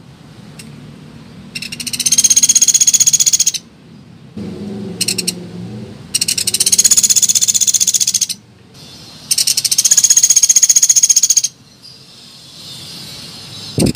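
Small woodpecker (pelatuk beras) giving rapid, high rattling trills, each about two seconds long. There are three full trills with short breaks between them, and a short one between. A low murmur comes about four to six seconds in, and a brief knock near the end.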